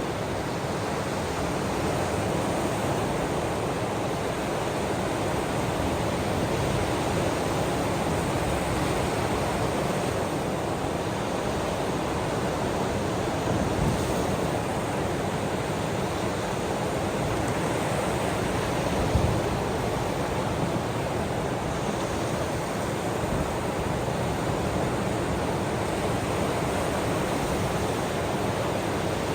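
Ocean waves washing steadily on the shore, a continuous rushing surf with only slight swells in loudness.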